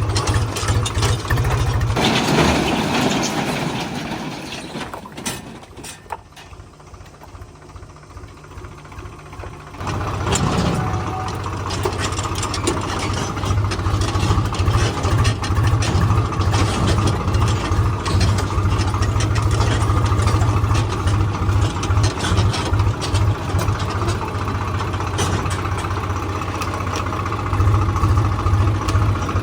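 Tractor diesel engine running. Its sound drops away to a quieter stretch a few seconds in, then comes back loud and steady at about ten seconds.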